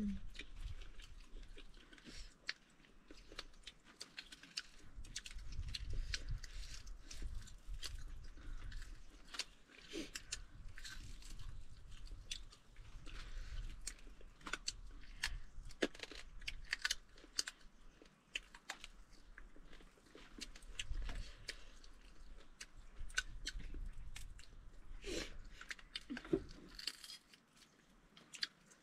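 Mukbang-style eating close to the microphone: people chewing and crunching crispy fried food, with many sharp, irregular crunches and low thumps.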